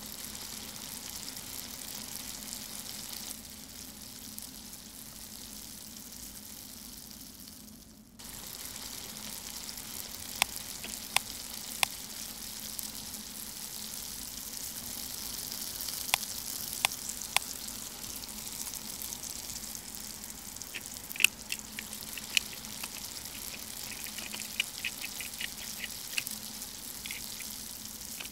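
Beef sizzling on a miniature electric griddle, a steady frying hiss. From about ten seconds in, a small spatula clicks against the hot plate, with a run of quick taps near the end as the stir-fry is tossed.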